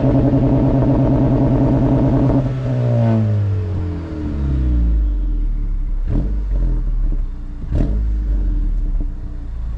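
2022 Honda Civic Si's 1.5-litre turbocharged four-cylinder, fitted with a 27WON downpipe and the stock exhaust, held on the two-step launch-control limiter with a rapid choppy stutter for about two and a half seconds. It then falls back to idle, and two sharp cracks follow, about six and eight seconds in.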